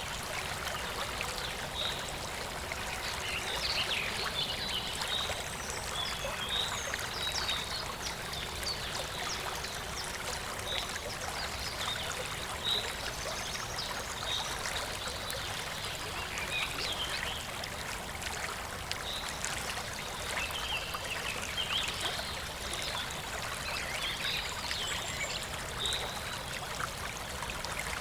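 Shallow stream of clear water flowing and trickling steadily, with short high bird chirps scattered through it.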